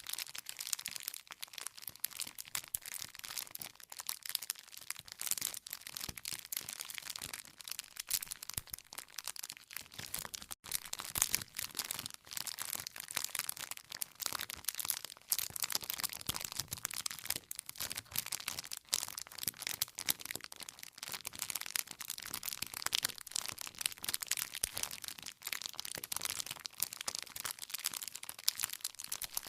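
Wood fire burning with dense, continuous crackling and sharp pops from the burning logs.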